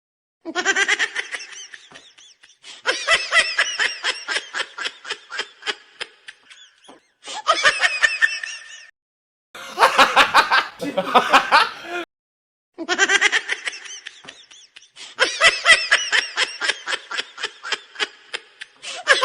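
A run of about six separate recorded laugh sound effects, one after another, each a second or more of quick pulsing ha-ha laughter, cut apart by short dead silences.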